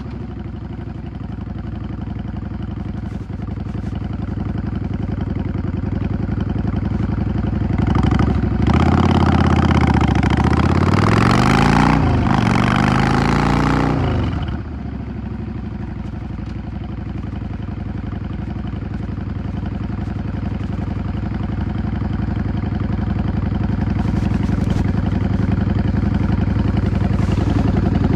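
Yamaha XVS 650 bobber's V-twin engine running on the move. A third of the way in it gets louder and revs up, dipping once and climbing again as through a gear change. About halfway it falls back to a steadier, lower run that slowly builds toward the end.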